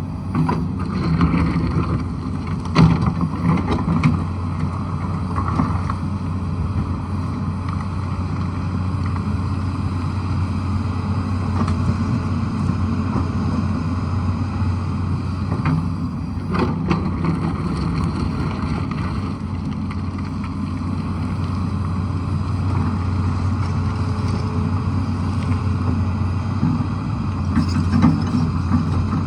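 Diesel engine of a Tata Hitachi excavator running steadily under load, with occasional sharp knocks a few times through, as at about three seconds in and just past halfway.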